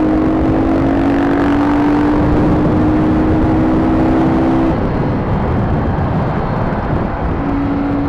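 Motorcycle engines running at a steady cruising speed during a group ride, with wind rushing over the microphone. A steady engine drone climbs slightly in pitch for the first four or five seconds, drops away, and returns briefly near the end.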